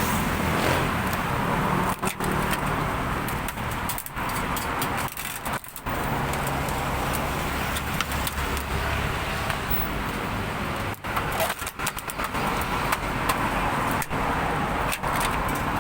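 Steady background noise of road traffic, broken by a few brief dips.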